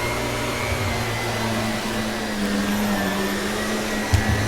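Vacuum cleaner running steadily, its motor holding a constant hum and whine, with a brief knock near the end.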